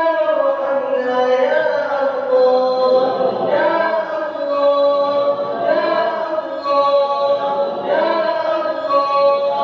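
Arabic prayer supplication chanted in long, drawn-out melodic phrases, with held notes that slide and waver between pitches.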